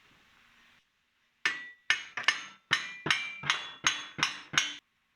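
A hammer striking steel in a steady run of about ten blows, roughly three a second, each with a short metallic ring. The blows start about a second and a half in, after a moment of silence.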